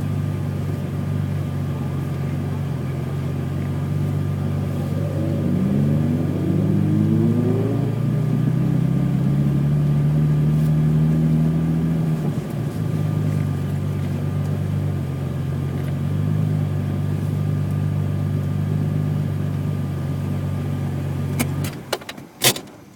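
BMW E28's 3.6-litre straight-six running steadily, picking up speed and getting louder from about six seconds in, then dropping briefly around twelve seconds, as at a gear change, before running on at an even pitch. Near the end the engine sound stops abruptly, followed by a few sharp clicks and a loud knock.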